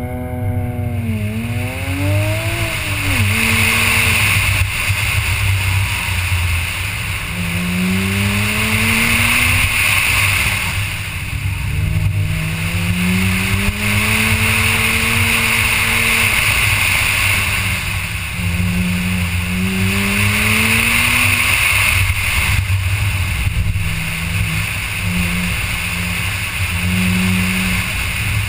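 Porsche Cayman S's mid-mounted flat-six engine under hard autocross driving, heard from aboard the car: its pitch rises again and again as it accelerates, then drops off when it lifts and brakes between cones. A steady low rumble and a constant hiss run underneath.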